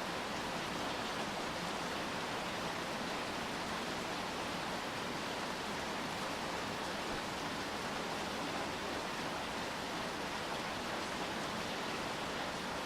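Steady rain falling: an even hiss with no single drops or other events standing out.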